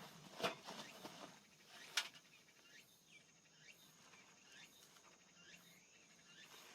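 Two sharp pops from burning wood in a small fire pit, about half a second and two seconds in, over a faint low hiss, with a few faint short chirps after them.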